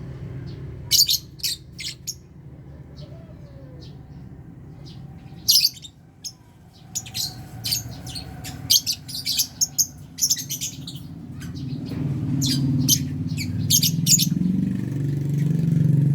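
Lovebirds giving sharp, shrill chirps in quick clusters, several calls at a time with short pauses between. A low rumble swells underneath over the second half.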